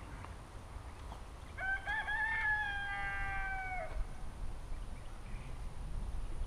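A single long bird call, lasting about two and a half seconds from about a second and a half in, holding one pitch and dropping off at the end.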